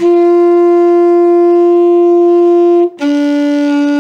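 Saxophone playing two long steady notes: a higher one held for about three seconds, then, after a brief break, a lower one a small step down, so then me in a by-ear note game.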